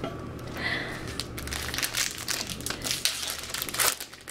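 Foil wrapper of a baseball card pack crinkling as it is handled and torn open, a dense irregular crackling.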